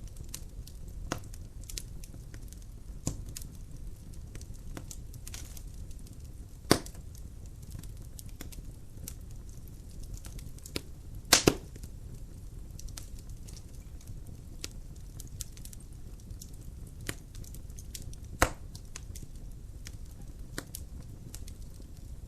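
Logs burning in a fireplace, crackling with scattered sharp pops over a low steady rumble of the fire. The loudest are a quick double pop about halfway through and single pops about a third of the way in and near the end.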